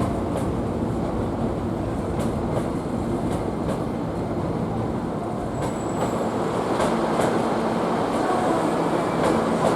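Hankyu electric train running: a steady rumble of wheels on rails, with faint clicks as the wheels pass over rail joints.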